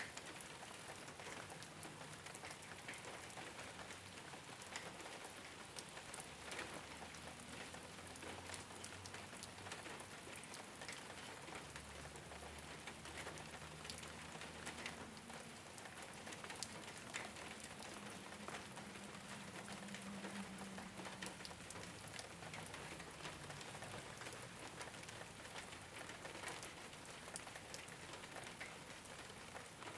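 Steady rain falling on a rooftop, an even hiss with many individual drops ticking sharply on the surface.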